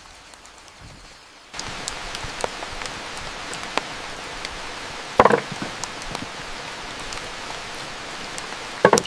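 Steady rain hiss that comes in suddenly about one and a half seconds in, with scattered drip-like ticks and two louder clattering knocks, one midway and one near the end.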